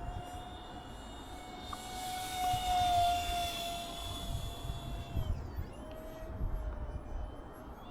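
Small electric RC plane's motor and propeller whining steadily, louder about three seconds in, then dropping in pitch and fading about five seconds in before picking up again a second later. Wind buffets the microphone with low gusty rumble.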